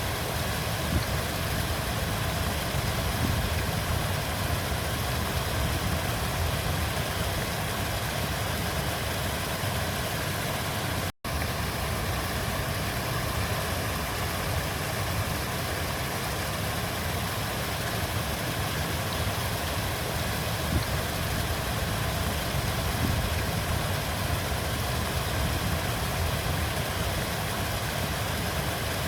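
Flowing river water rushing steadily, a low, even rumble with a hiss on top, cutting out for an instant about eleven seconds in.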